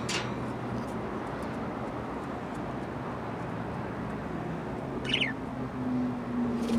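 A budgerigar gives one short chirp that falls in pitch, about five seconds in, over steady background noise. A low steady hum begins near the end.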